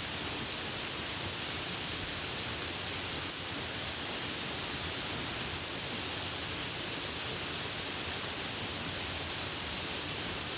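Steady rain falling: an even, unbroken hiss with faint scattered patters.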